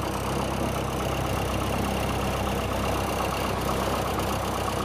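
Cessna 172's piston engine idling steadily just after engine start.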